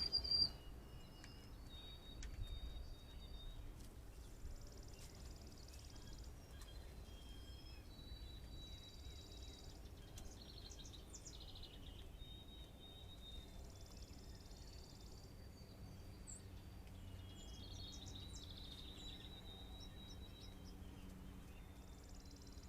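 Several songbirds singing and chirping, with a buzzy trill that comes back every few seconds and a louder high call at the very start, over a faint low rumble.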